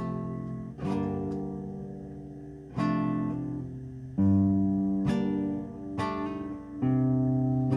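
Acoustic guitar strumming chords, one strum every second or two, each left to ring out before the next.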